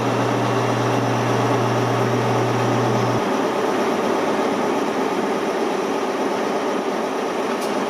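Steady rumbling ambience of a busy mainline station's platforms, from trains standing and moving there. A low steady hum under it cuts off abruptly about three seconds in.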